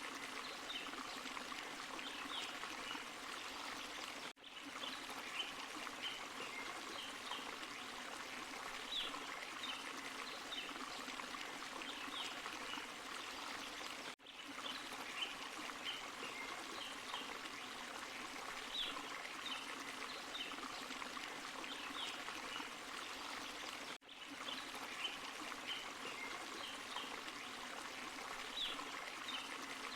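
Forest stream and small waterfall running steadily, with short high chirps over the water. The sound drops out briefly three times, about ten seconds apart.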